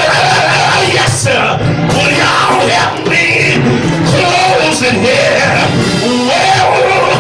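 Loud church music with voices singing and shouting over it.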